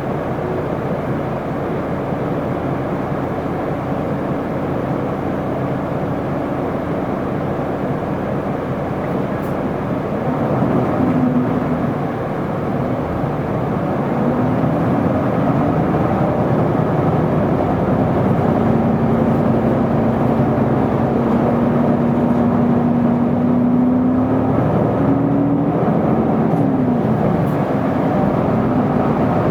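Interior running sound of an Isuzu Erga city bus: steady diesel engine rumble and road noise, with a whine from the engine and drivetrain that rises and falls in pitch several times as the bus changes speed.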